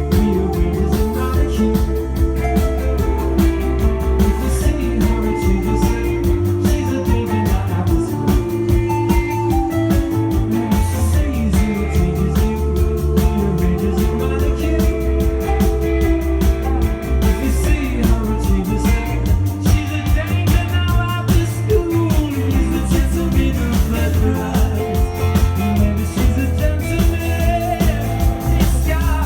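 Rock band music with guitar, bass and drums playing a steady beat, with sliding pitched lines over the top.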